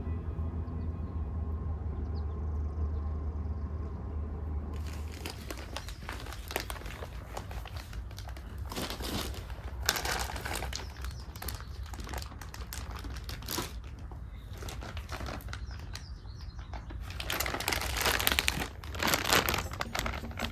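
Soft background music that stops about five seconds in, then close crinkling and rustling of packaging or plastic being handled, in irregular stretches with sharper crackles.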